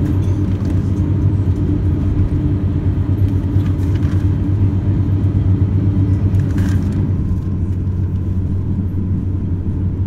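Steady low rumble in the cabin of an Airbus A350-900 on the ground before takeoff, its Rolls-Royce Trent XWB engines running at low power with a low hum.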